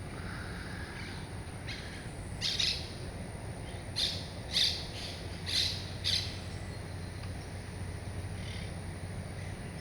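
Monk parakeets calling: about five short calls between about two and six seconds in, with a few fainter ones around them.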